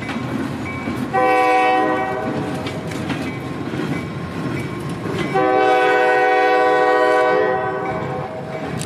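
Freight train rolling past, its boxcar wheels rumbling and clicking on the rails. The diesel locomotive's multi-tone air horn sounds a short blast about a second in, then a longer blast lasting a couple of seconds.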